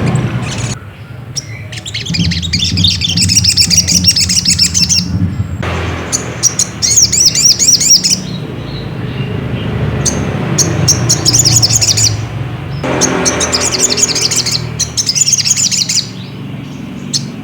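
Crimson sunbird (sogon) calling in bursts of rapid, high-pitched chattering twitters and trills, each burst a second or a few seconds long with short pauses between, over a steady low hum.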